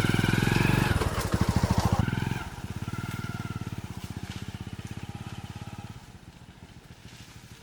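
Motorcycle engine running and moving off, its pulse loud at first, then dropping about two and a half seconds in and fading away.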